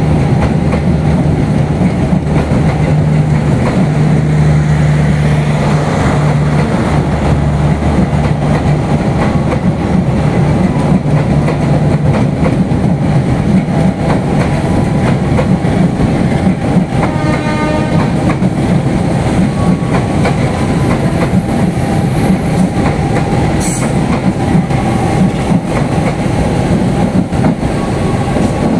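A passenger train passing at close range behind a GE U18C (CC201) diesel-electric locomotive. For the first several seconds the locomotive's diesel engine gives a steady low hum, then the coaches roll by with continuous wheel-on-rail clatter.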